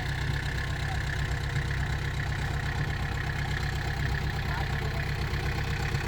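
Heavy earthmoving machine's diesel engine running steadily at low revs, a deep even rumble with a fast pulse.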